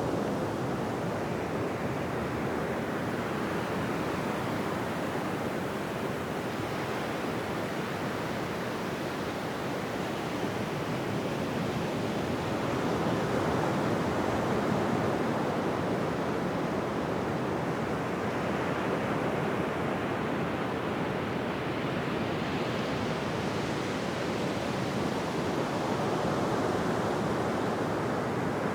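Ocean surf on a beach: a continuous wash of waves that swells and eases slowly, louder around the middle, with no distinct single crashes.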